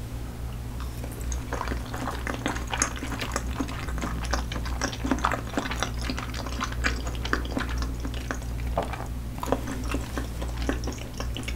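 Close-miked chewing of a thick slice of raw salmon sashimi: a dense run of small wet mouth clicks and smacks, starting about a second and a half in.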